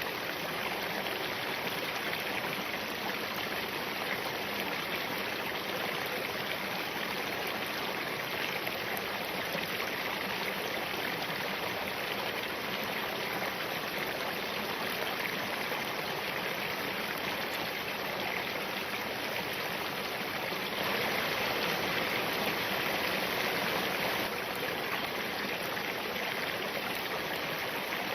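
Spring-fed mountain stream running over rocks: a steady rushing and splashing of water, briefly a little louder about three quarters of the way through.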